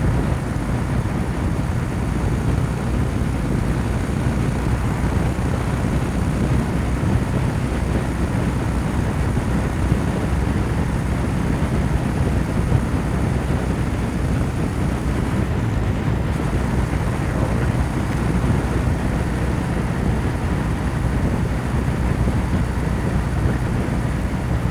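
Kawasaki W800's air-cooled parallel-twin engine and exhaust at steady cruising speed, pulling hard at low revs in a high gear: the engine is being lugged under heavy throttle below its peak torque. The engine note holds steady, with some wind noise over it.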